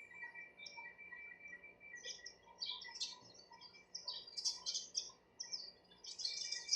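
Several sparrows chirping in quick, overlapping bursts that grow busier from about two seconds in and are densest near the end. A faint steady high tone runs underneath.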